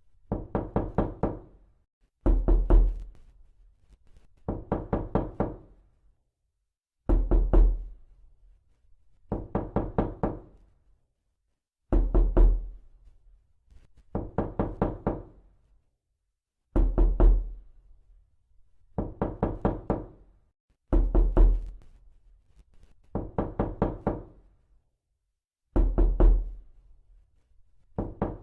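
Knocking in short bursts of about four or five quick knocks, repeating roughly every two seconds with silent gaps between them. Many bursts open with a heavier, deeper thud.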